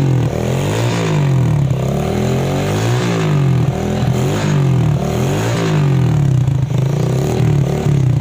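Restored old Kawasaki 110 motorcycle engine running and being revved up and down over and over, with a throttle blip about every second or so.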